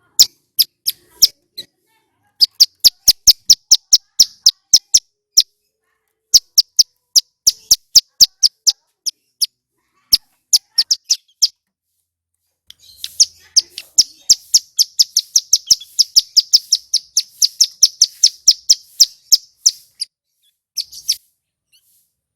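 Male ciblek gunung (prenjak gunung, a prinia) singing loud, clear, rapid runs of short sharp high notes, about four to five a second, in several bursts separated by short pauses. The longest run comes in the second half.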